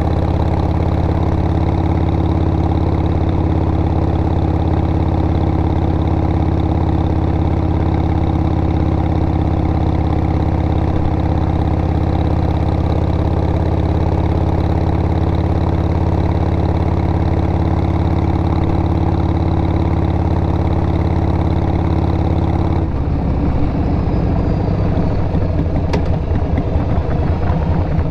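2002 Harley-Davidson XL883R Sportster's air-cooled 883 cc V-twin, breathing through Cobra Speedster Short mufflers, idling steadily with a deep, even beat. Near the end the note turns choppy and uneven as the bike moves off.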